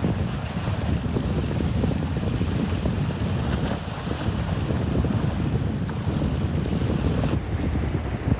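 Bosphorus waves washing and splashing at the water's edge, with wind rumbling on the microphone. A higher hiss in the water sound drops away about seven seconds in.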